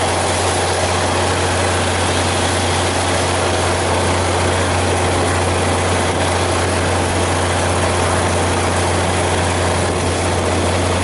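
Train running along the track, heard from inside the carriage: a steady low engine drone under a constant rushing noise.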